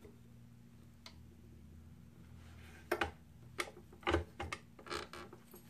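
Hand-fitting parts on a sliding miter saw: a single light click about a second in, then a run of small sharp clicks and knocks of metal parts over the second half, over a faint steady hum.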